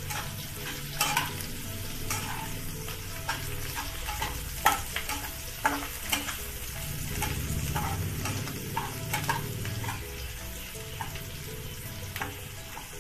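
Boiled potato cubes and green chillies sizzling in ghee in a kadhai, stirred with a steel spatula that scrapes and taps against the pan every second or so.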